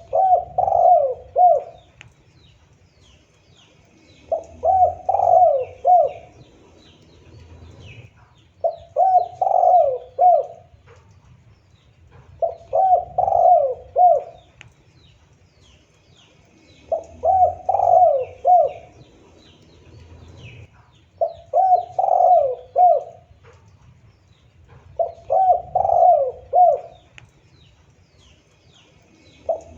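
Spotted dove cooing: short phrases of three or four coos, repeated about every four seconds, with faint chirps of other small birds in the background.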